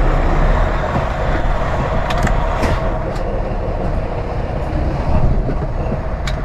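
Semi-truck's diesel engine running as the tractor-trailer creeps to slide the trailer tandems, a steady rumble with a few sharp clicks and rattles from the rig.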